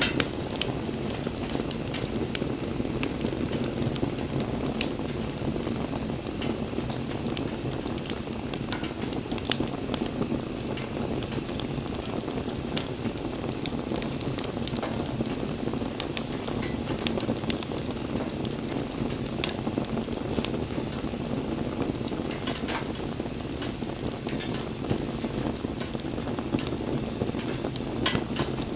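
Bonfire of burning wood crackling: a steady low rush of flame with frequent sharp crackles and an occasional louder pop.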